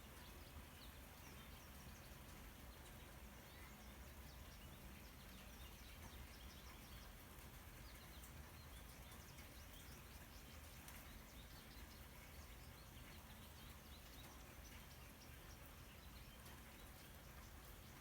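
Near silence: faint steady background noise with a low hum, dotted with many faint, short, high chirps.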